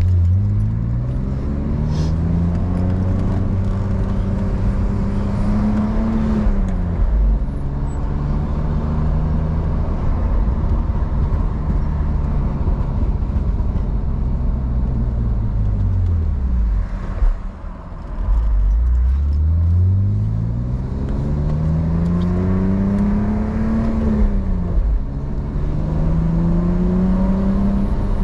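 BMW E46's engine accelerating, its pitch rising for about six seconds, then dropping at a gear change and holding steady. It winds down over several seconds and dips briefly, then climbs again through a gear, with another shift a few seconds before the end.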